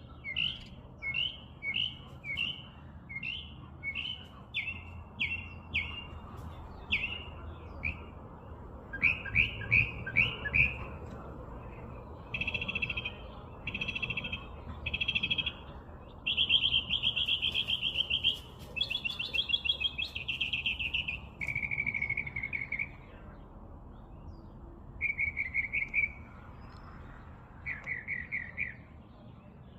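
Songbird singing: phrases of quickly repeated chirping notes and fast trills, each phrase a different pattern, separated by short pauses.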